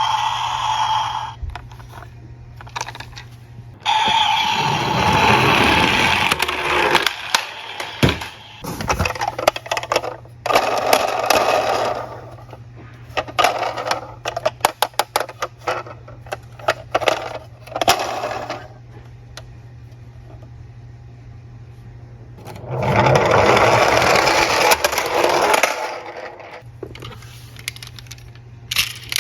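Small toy cars running down a slope with a rolling scrape, then clattering and clicking as they knock together and drop, in several separate runs. A steady siren tone cuts off about a second in.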